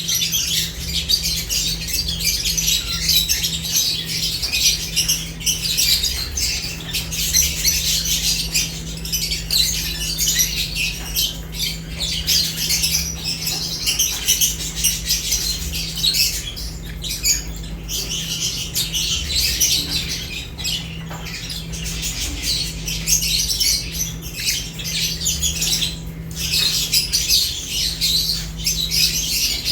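Several lovebirds chattering and squawking nonstop in a dense, overlapping chorus of shrill chirps, easing off briefly about two-thirds of the way through. A steady low hum runs underneath.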